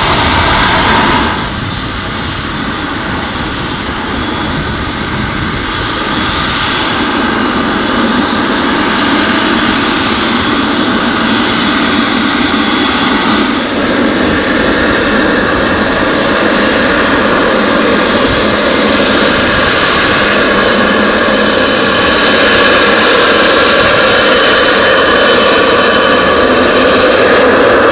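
Boeing 777-300ER's twin GE90-115B turbofan engines running loud and steady, slowly growing louder, with a rising whine near the end.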